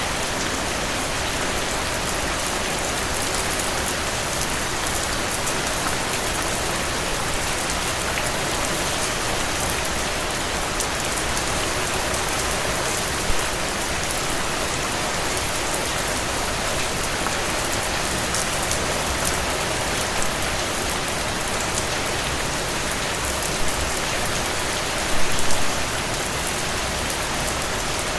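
Steady rain falling on a surface, an even hiss with no let-up. A few sharper, louder taps of drops stand out, one about halfway through and a short cluster near the end.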